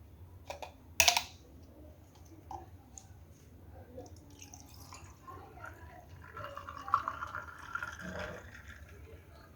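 Liquid dripping and pouring, with a sharp click about a second in.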